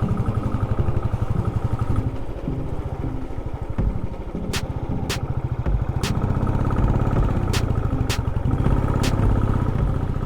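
Motorcycle engine running steadily while being ridden, with a string of sharp clicks in the second half.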